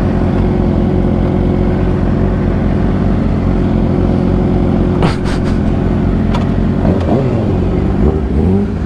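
Suzuki GSX-R 600 sportbike's inline-four engine running at a steady pace while riding, with wind and road noise. A few sharp clicks come about five seconds in, and the engine pitch shifts up and down near the end.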